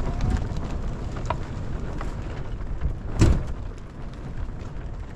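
Rain with wind buffeting: a low, uneven rumble, scattered drops ticking, and a single louder knock about three seconds in.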